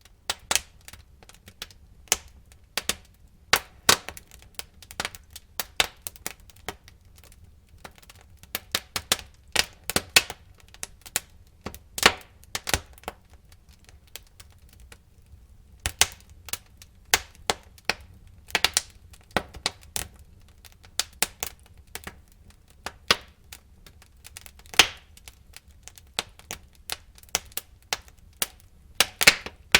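Burning firewood crackling and popping in a fireplace: sharp irregular cracks, several a second, over a faint low rumble of the fire, with a short lull partway through.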